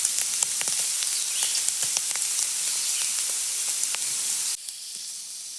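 Potatoes and green peppers frying in oil in a pan, sizzling steadily with frequent pops and crackles. The sizzle drops suddenly to a quieter hiss near the end.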